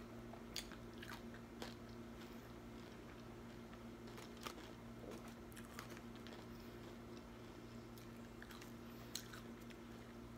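Close-up chewing and crunching of well-done, crispy fried buffalo wings, with scattered sharp little clicks and crackles, over a steady low hum.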